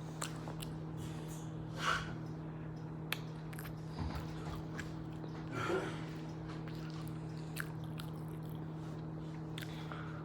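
A person chewing and eating close to the microphone, with scattered small clicks and a couple of short breathy sniffs, over a steady low electrical hum.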